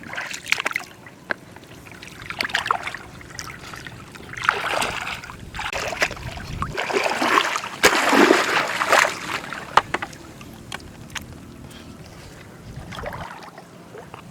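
Water sloshing and splashing in uneven surges, loudest from about four to ten seconds in, with scattered sharp clicks.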